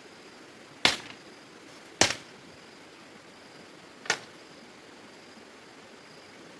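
Three sharp, short knocks: two about a second apart, then a third about two seconds later, over a faint steady hiss.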